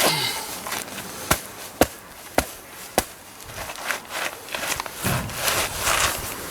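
Flowers being stomped and crushed underfoot: four sharp snaps about half a second apart, then a stretch of crackling and crunching.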